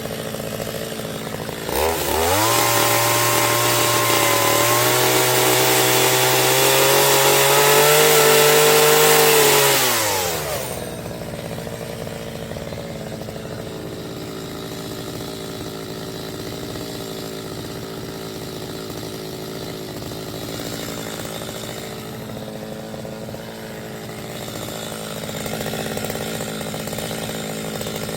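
Chainsaw revved hard for about eight seconds, its pitch creeping up, then falling back to a steady idle for the rest of the time.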